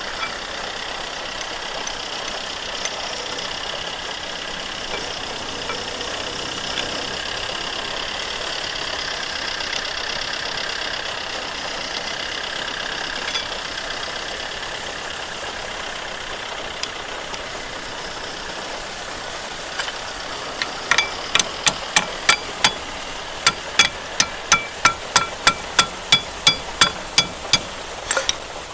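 A steady mechanical hum in the background. In the last seven seconds or so it is joined by a run of about twenty sharp metallic taps, roughly three a second, each with a short ring.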